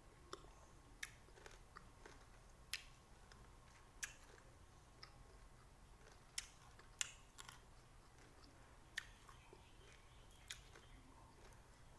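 Someone chewing a small green lime: quiet, irregular wet clicks and smacks, a dozen or so, the loudest two about two-thirds of the way through.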